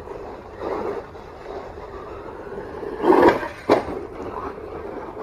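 Electric 1/10 RC monster truck with a brushless motor being bashed on rough ground: bursts of drive and tyre noise, the loudest a little after three seconds in, followed at once by a single sharp knock.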